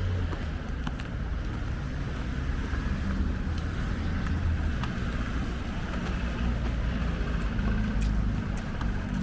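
Street traffic: a car's engine running close by with a steady low rumble, over general town-street noise.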